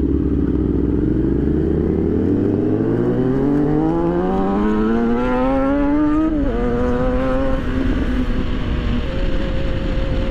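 Sport motorcycle engine accelerating, its pitch rising steadily for about six seconds, then dropping sharply at an upshift and holding steady afterwards.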